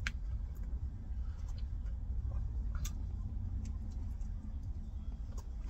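Eating sounds: small wet clicks and smacks of chewing and biting into a burger, scattered irregularly, over a steady low rumble.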